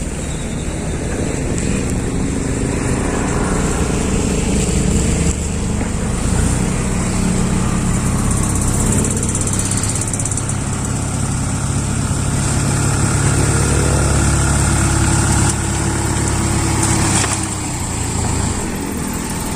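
Isuzu Elf dump truck's diesel engine running. It speeds up about six seconds in, holds there, and settles back down near the end.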